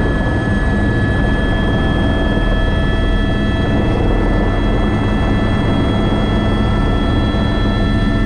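Airbus AS350 B3 (H125) helicopter in flight: the steady whine of its turboshaft engine over the low, even rumble of the rotor, holding constant throughout.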